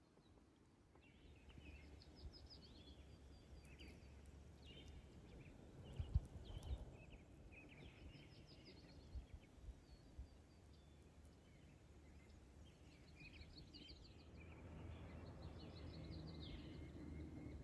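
Faint birdsong: several small birds chirping and trilling in quick repeated notes, over a steady low rumble. A few soft thumps come about six seconds in and again a few seconds later.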